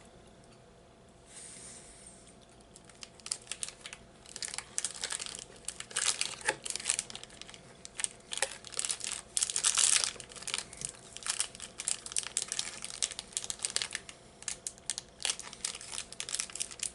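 Crinkling and crackling of a chocolate wafer bar's plastic wrapper being handled, in quick irregular crackles that start a few seconds in and continue throughout.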